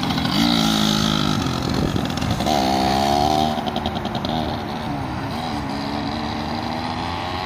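Yamaha PW80's small two-stroke single-cylinder engine running as the bike is ridden, revving up about half a second in and again about two and a half seconds in, then easing off to a steadier pitch.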